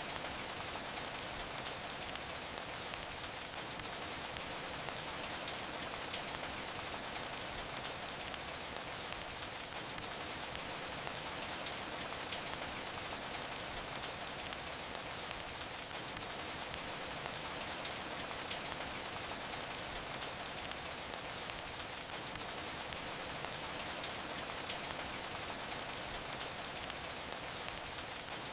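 Steady rain falling, with irregular sharp crackles and pops of a wood fire scattered through it.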